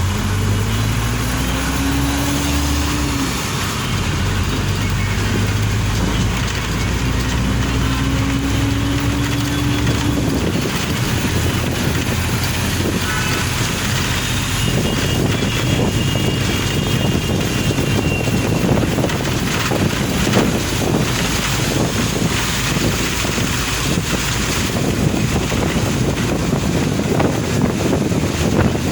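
Car driving in the rain with steady road noise. The engine note climbs twice, each time breaking off, as it accelerates through the gears. About halfway through, a rough, crackling rush of wind and rain on the microphone takes over.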